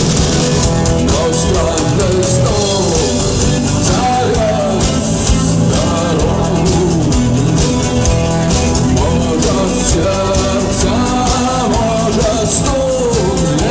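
Live rock band playing a song, with a sung melody over guitar and drums.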